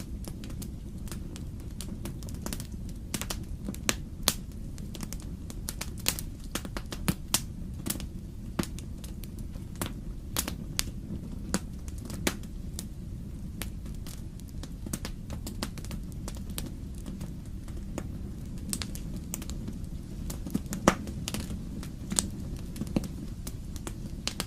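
Wood fire crackling in a fireplace: irregular sharp pops and snaps over a steady low rush, with one louder snap near the end.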